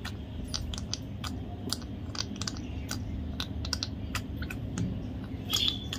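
Sick budgie making quick, irregular clicking sounds instead of its normal chirping call, a sign of its illness. A brief faint chirp comes near the end.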